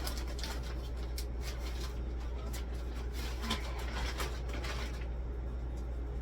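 Light clicks, knocks and rustles of groceries and containers being handled, over a steady low hum.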